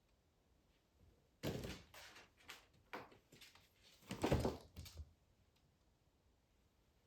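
A cluster of soft knocks and thuds mixed with rustling, lasting about three and a half seconds and loudest a little past the middle, in a quiet small room.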